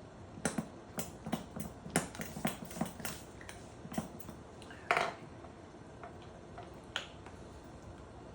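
Plastic honey bear squeeze bottle being squeezed: a run of sharp clicks and crackles, then a longer sputter about five seconds in and one last click. The bottle is nearly empty, with the rest of the honey stuck in the bottom.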